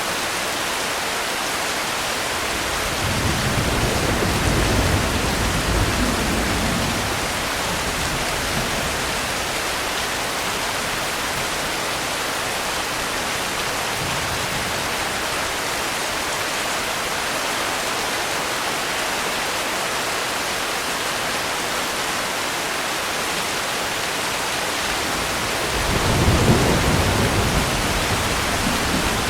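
Steady rain hissing, with two low rolls of thunder rumbling through it, one starting about three seconds in and lasting a few seconds, and another near the end.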